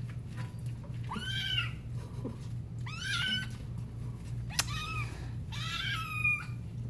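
A young kitten meowing four times in protest at being bathed. The cries are high and arching, over a steady low hum.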